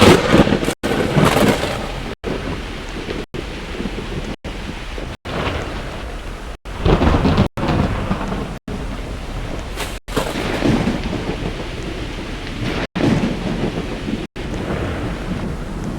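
Severe thunderstorm: heavy rain with loud rumbling surges that swell and fade several times. The sound drops out for an instant about once a second.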